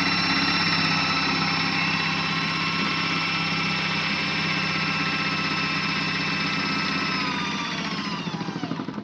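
Small electric motor of a modified Miele W1 toy washing machine spinning its drum overloaded with snow: a steady high whine over a fast rattle. Near the end the whine falls in pitch and the sound stops as the spin winds down.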